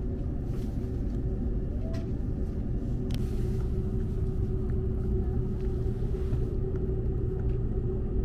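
Cabin noise inside a Seibu 001 series Laview train: a steady low rumble with a steady hum over it and a couple of faint clicks.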